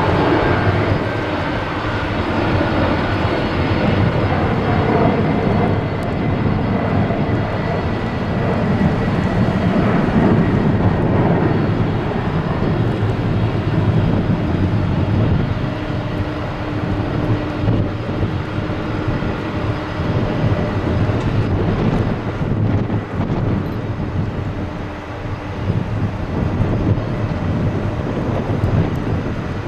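Jet airliner engines running: a steady rumble with thin whining tones over it, and a high whine that falls slowly in pitch over the first few seconds.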